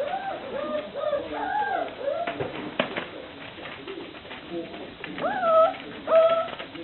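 Five-week-old puppies whining and whimpering: many short, high, wavering cries overlap. Two louder rising-then-falling yelps come near the end, and there is a sharp click about three seconds in.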